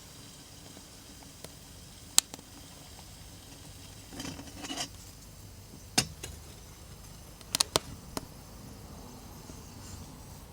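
Small wood fire crackling: a few sharp, scattered pops over a faint steady background, with a brief rustle about four seconds in.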